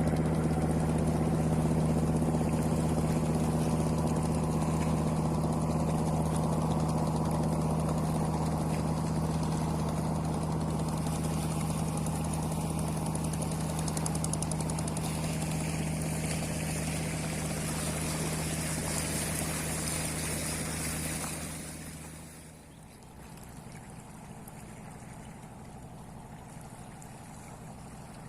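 Fishing boat's engine running at a steady pace, a low even drone that slowly grows fainter and then falls away quickly about three-quarters of the way through, leaving only quieter background noise.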